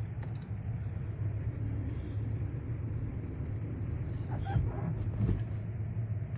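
Steady low drone of a Jeep's engine and tyres heard from inside the cabin while it is driven through snow.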